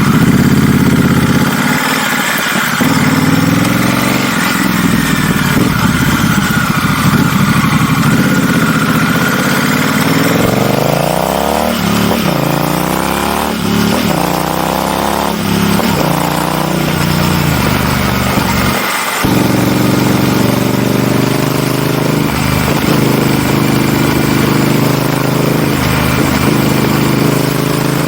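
Honda Rebel 1100 DCT's 1084 cc parallel-twin engine running through an aftermarket PP muffler: idling, then revved up and down in several quick blips about a third of the way in, dropping back briefly before settling into a steady idle again.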